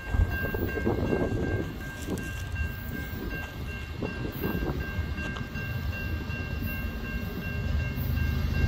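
Distant CN freight train approaching, led by an ES44DC and an SD70i diesel locomotive: a steady low rumble that swells and fades a little.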